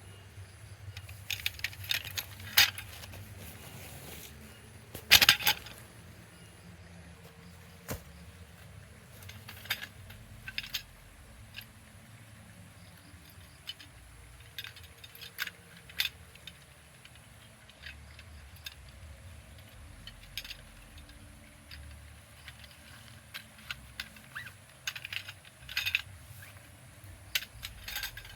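Scattered clinks and knocks of small hard objects being handled, loudest about five seconds in, with clusters around two seconds and near the end, over a faint steady hiss.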